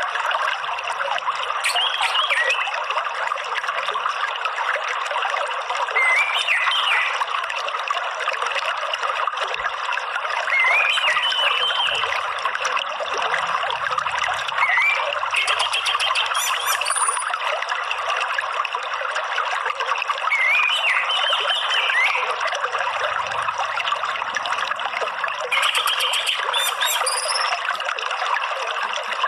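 Steady trickling running water, with short high birdsong phrases breaking in about every four to five seconds, the song of an orange-headed thrush.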